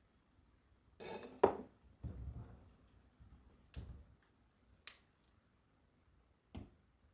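Small objects being handled: a rustle with a sharp knock about a second and a half in, a dull thud, then a few light separate clicks and taps.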